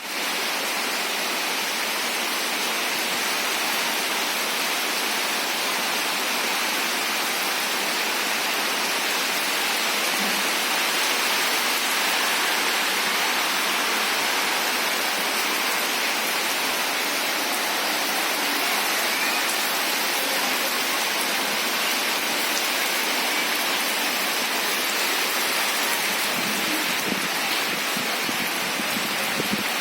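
Steady, heavy rain falling, an even hiss of rain with no let-up.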